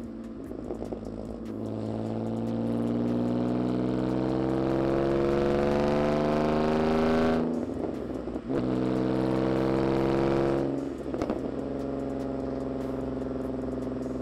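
Ford Mondeo ST220's straight-piped 3.0 V6 exhaust pulling hard, its pitch climbing steadily through a gear. About halfway through it drops at a gear change and climbs again. After a second change it settles into a steady drone.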